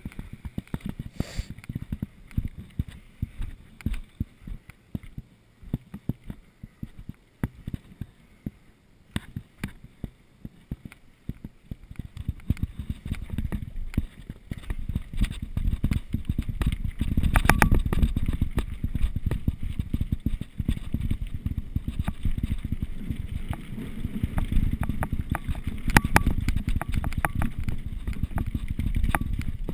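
Mountain bike rolling downhill over rough ground, a dense run of rattles and knocks over a low rumble that grows louder and busier about halfway through.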